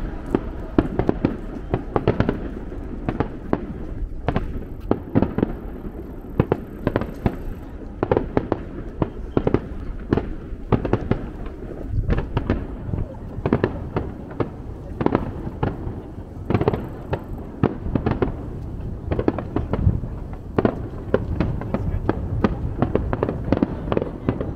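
Fireworks display: shells bursting in quick succession, a dense run of sharp bangs over a continuous low rumble.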